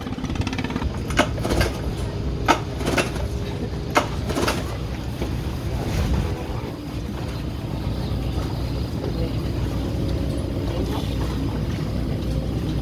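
Low, steady rumble of a 40 hp speedboat outboard motor that is playing up, with a series of sharp knocks or clatters in the first few seconds.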